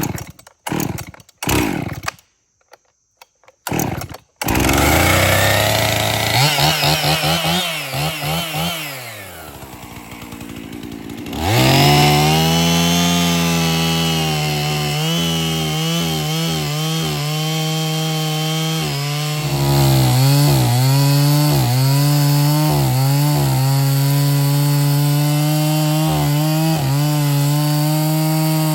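Two-stroke chainsaw: after a few short sounds, it catches and starts about four seconds in, revs up and down, then runs at high throttle while cutting into a fallen tree, its pitch dipping repeatedly under the load of the cut.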